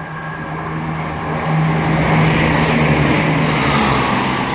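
A Class 170 Turbostar diesel multiple unit passing through the station: a steady diesel engine drone under wheel and rail noise that swells about a second and a half in and eases a little near the end.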